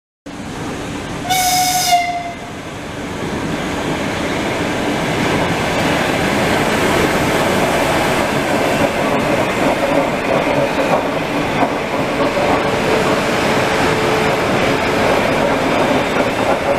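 Electric multiple-unit commuter train giving one short horn blast about a second in, then running past at speed with a growing, then steady, rumble of wheels on the rails.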